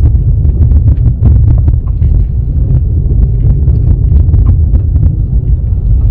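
Strong gusty wind buffeting the microphone: a loud, heavy low rumble, with scattered small ticks throughout.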